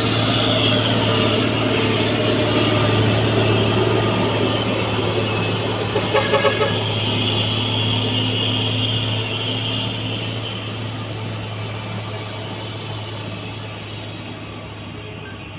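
Heavy diesel truck engine running under load on a steep climb, a steady low drone that slowly fades. A brief quick rattle of about four pulses comes about six seconds in.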